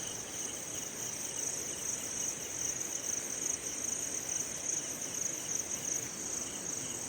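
Crickets chirring in a steady, high, unbroken trill, with a fainter second insect call pulsing underneath.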